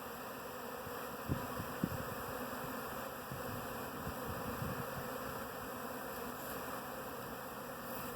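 A honeybee swarm buzzing as a steady, dense hum of many bees, with two brief low thumps about a second and a half in.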